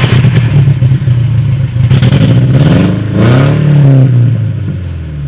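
2001 Volkswagen Golf engine running loud through its custom exhaust just after being started. About halfway through it is revved once, the pitch rising and then falling back toward idle.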